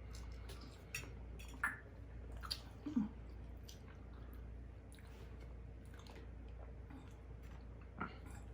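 Close-up mouth sounds of someone drinking water and eating: small wet clicks, smacks and swallows scattered through, with a few sharper ones in the first three seconds and another near the end.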